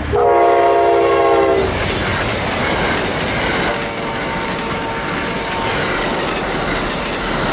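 Amtrak train's locomotive horn sounding two blasts, the first loud and the second fainter about four seconds in, over the steady noise of the train passing.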